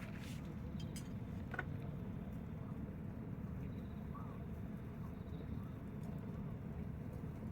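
Wood bonfire burning: a steady low rumble with a few sharp crackles and pops in the first two seconds.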